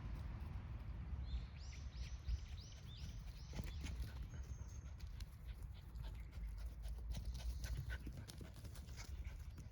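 A small dog, plausibly the Pomeranian, gives a quick run of about seven short high-pitched whines about a second in, with scattered light clicks and taps around it.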